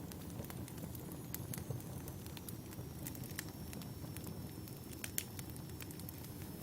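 Wood campfire burning: a steady low rumble of flames with frequent sharp crackles and pops from the burning logs, one louder pop about five seconds in.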